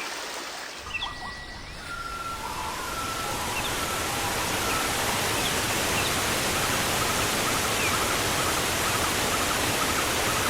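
Waterfall rushing, growing louder over the first few seconds and then steady, with birds calling faintly over it in short repeated notes and brief chirps.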